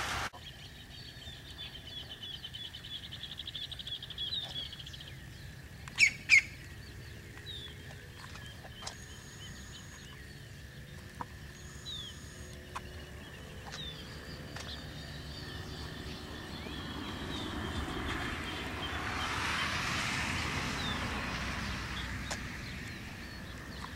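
Songbirds chirping and trilling in open countryside, with two sharp loud sounds in quick succession about six seconds in. A broad rushing noise swells and fades in the last third.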